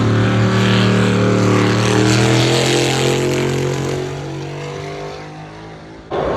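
A car engine running loudly at a steady, slightly falling pitch, then fading away over the last couple of seconds.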